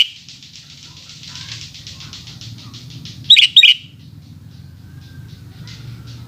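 Sooty-headed bulbul (kutilang) giving one short, loud phrase of two quick notes, each sliding down in pitch, about three and a half seconds in. A fast, even high chatter runs underneath until about four seconds in, with a faint low hum throughout.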